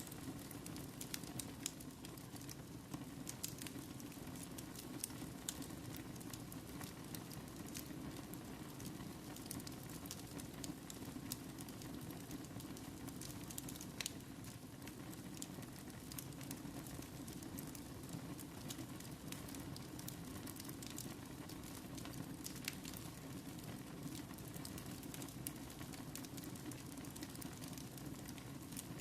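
Wood fire burning in a fireplace: a steady low rush with frequent irregular crackles and pops.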